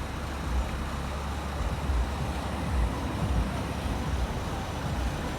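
Trucks pulling out: a steady low rumble of engines and road noise, with uneven low thumps underneath.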